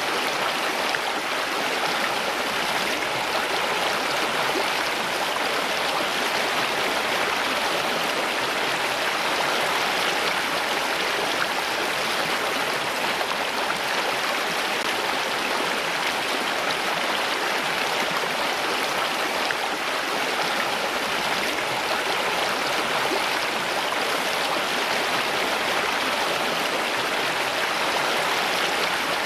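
Running water in a steady, unbroken rush, like a flowing stream.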